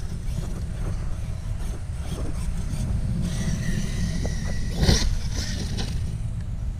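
Wind rumbling on the microphone, with the high whine of an electric RC car's motor for about a second and a sharp knock about five seconds in.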